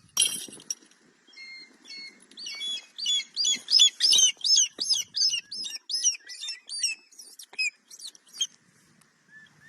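A bird calling: a short scratchy burst at the start, then a fast series of sharp, high chirps, about three a second, for some six seconds before stopping.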